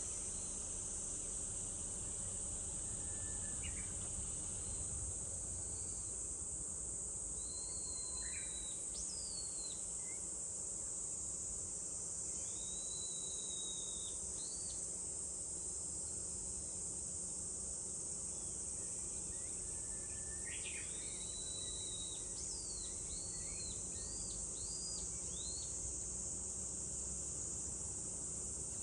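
A steady, high, even chorus of summer cicadas, with a bird calling in short arched and rising whistled notes now and then, busiest near the end, over a low steady rumble.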